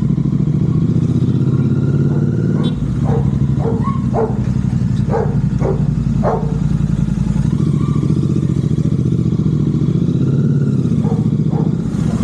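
Royal Enfield GT650's parallel-twin engine running steadily through aftermarket Red Rooster exhausts, with a deep, even exhaust note. A run of short, sharp, higher-pitched sounds rises over it a few seconds in, and two more come near the end.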